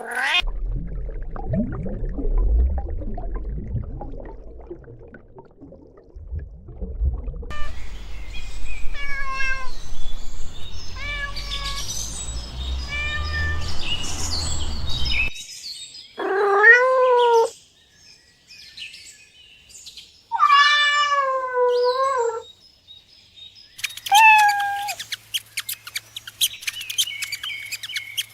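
Cats meowing: a run of short meows, then two long drawn-out meows that bend down and up in pitch, and one more short meow. A low rumbling noise sits under the first half, and a rapid crackle of clicks fills the last few seconds.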